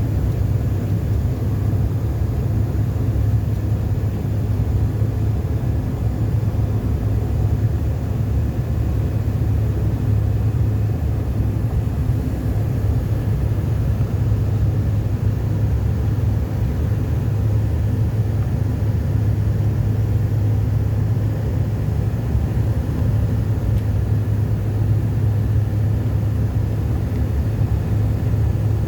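Steady low drone of a passenger jet heard from inside the cabin, engine and airflow noise with a strong low hum that does not change.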